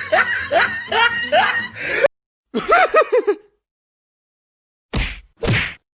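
Sound-effect clips played back to back: a repeated rising laugh over music that cuts off about two seconds in, then a short wobbling snicker, a pause, and two swishing whacks near the end.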